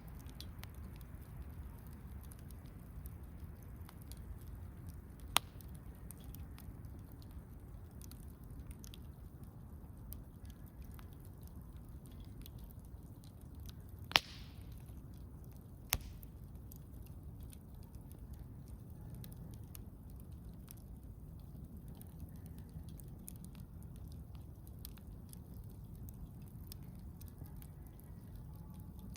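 Campfire burning: a low, steady rush of flames under a scatter of faint crackles, with three sharp pops about five seconds in, about halfway through (the loudest), and two seconds after that.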